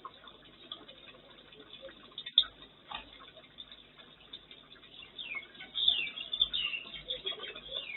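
Small birds chirping, with quick falling calls that thicken into a busier burst from about five seconds in, heard through a security camera's thin, muffled microphone. A single sharp click at about two and a half seconds.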